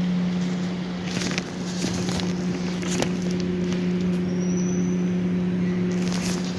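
A steady mechanical hum holding one pitch, with a few light clicks and taps over it.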